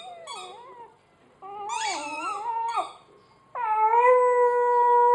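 Labrador puppy howling as he chews a squeaky hedgehog toy: two long pitched cries, the first wavering up and down, the second longer and held steady before dropping away.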